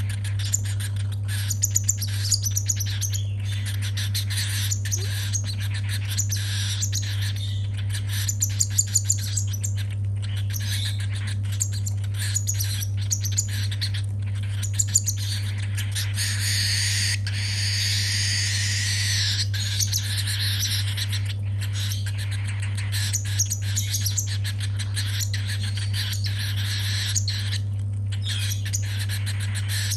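Baby cockatiel chick's rapid, raspy begging chirps, the food calls of a hungry chick during hand-feeding. They come in quick runs, thickening into a denser, noisier stretch a little past halfway, over a steady low hum.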